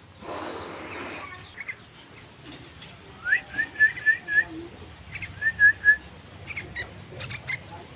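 Hand-raised pet bird chirping: a quick run of five short, high notes a few seconds in, then three more, with scattered clicks near the end. A burst of rustling comes first.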